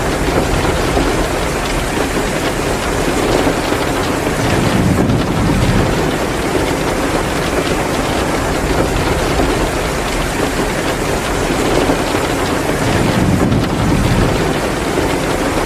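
Heavy rain pouring down in a steady downpour, swelling louder twice in a deeper rush.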